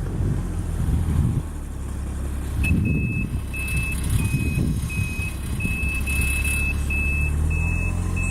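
A vehicle's backup alarm beeping steadily, about two beeps a second, starting about a third of the way in, over the low running of its engine.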